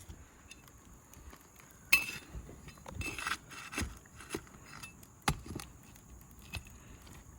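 Scattered clicks, scrapes and knocks of roofing work on asphalt shingles as a shingle is worked loose and its nails pulled, with two sharper knocks about two and five seconds in.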